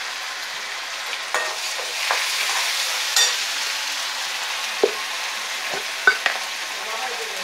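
Spice paste and red chilli powder sizzling in hot oil in a wok, stirred with a perforated steel spoon that scrapes and clinks against the pan several times.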